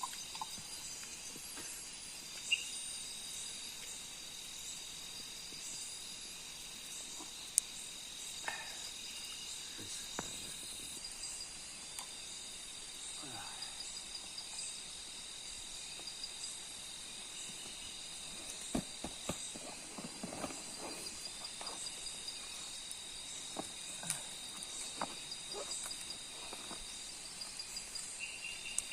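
Night-time forest insect chorus: a steady, high-pitched trilling of several insects at once, pulsing evenly, with scattered faint clicks and knocks over it, more of them in the second half.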